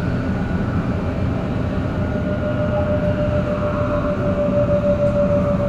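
Shinkansen 500 series train running, with a steady rumble of wheels on the rails. About halfway through, the whine of its Toshiba GTO-VVVF traction inverter comes in as a single tone and holds nearly level.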